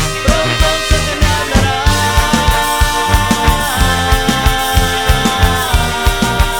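Instrumental passage of Mexican banda music: held brass chords that change a couple of times over a steady low beat, with no singing.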